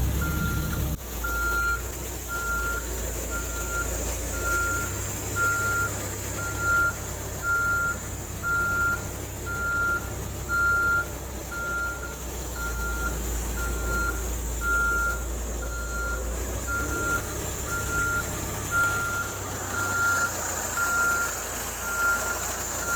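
Reversing alarm on a heavy vehicle beeping steadily, about once a second, over a low engine rumble.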